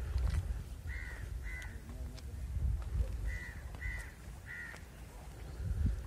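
A bird calling: two short calls about a second in and three more midway, over a low rumble of wind on the microphone.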